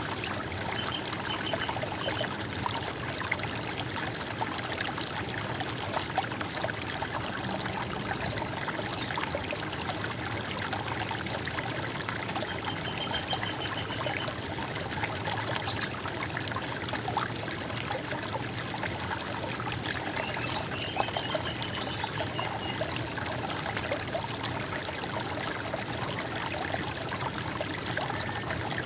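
Water running and trickling in a steady, even rush, with a few faint short bird trills over it.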